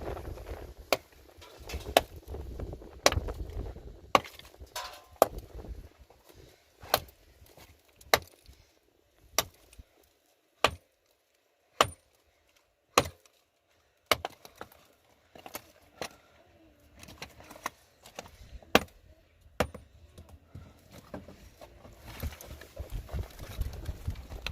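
A hand tool striking over and over in a steady rhythm, about one sharp blow a second, like chopping or hammering.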